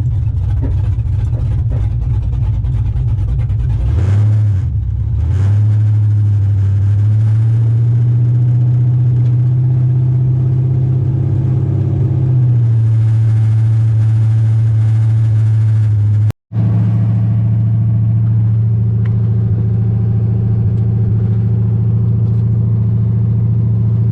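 LS V8 engine of a swapped 1995 Chevy pickup, running loud through open headers at a steady cruise. The engine note dips about four seconds in, climbs back, then holds steady. The sound cuts out for a split second about two-thirds of the way through.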